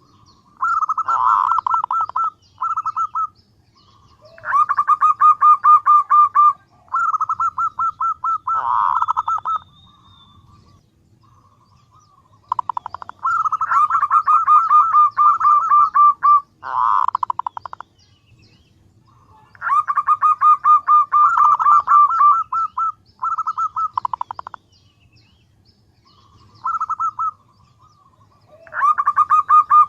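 Female zebra dove (perkutut) calling: fast runs of short, quickly repeated cooing notes in bursts of one to a few seconds, with short pauses between them. This is the call a female uses to draw males.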